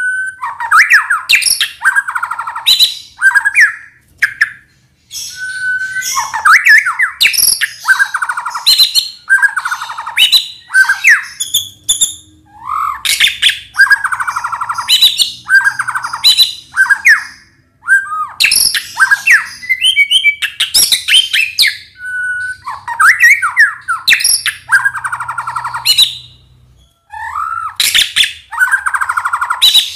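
White-rumped shama (murai batu) singing continuously in a rich, varied song. Each phrase lasts a second or two and mixes clear whistles that rise and fall with fast buzzy rattles, and there are only a few brief pauses.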